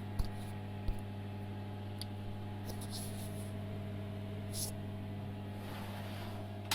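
Steady electrical hum from the Emco CNC milling machine, with a couple of small knocks early on and a few brief ticks and hisses.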